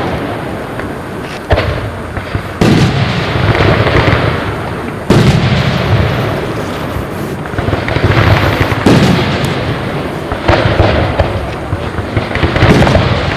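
Aerial fireworks shells bursting in a display: sharp bangs a few seconds apart, each trailing off into a long rumbling crackle.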